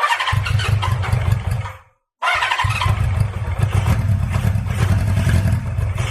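Honda CB550F's inline-four engine being turned over on its electric starter in two bursts, about two seconds and then about four seconds, a starter whine over a fast low pulsing; these are start attempts on the freshly repaired engine.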